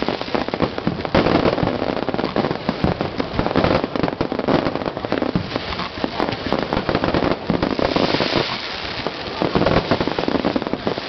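Fireworks crackling continuously: a dense, rapid stream of small pops and bangs that goes on without a break.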